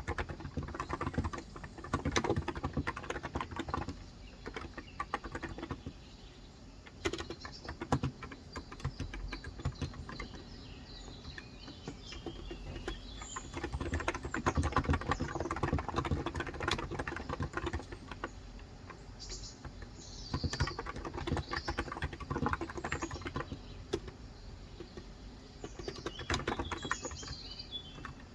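Typing on a Cox Endeavor tenkeyless keyboard with 35 g electro-capacitive (Topre-style) switches, in bursts of rapid keystrokes with short pauses. Birds chirp in the background, mostly in the second half.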